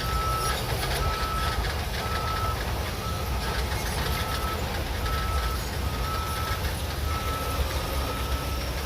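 Bulldozer's diesel engine running steadily under load, with a reversing alarm giving a high single-tone beep about once a second.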